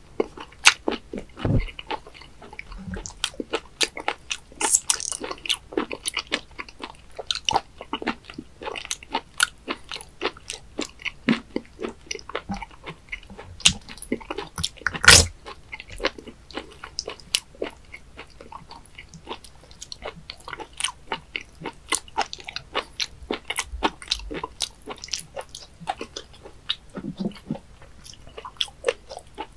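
Close-miked chewing of raw webfoot octopus sashimi: a dense run of short sharp mouth clicks, several a second, with one much louder click about halfway through.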